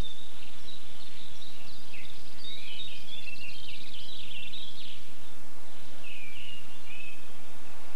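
Small birds singing in quick, high twittering phrases over a steady low hum of outdoor ambience.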